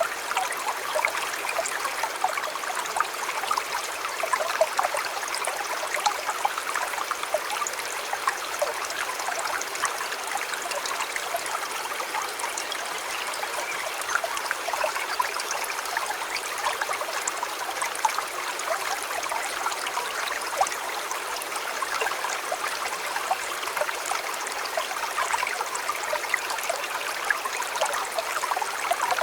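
A river flowing: a steady rush of water over the whole stretch, dotted with many small splashes and trickles.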